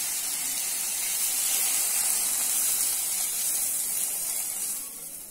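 Steady sizzling hiss of onion, capsicum and tomato pieces frying in butter in a hot pan, dropping away near the end.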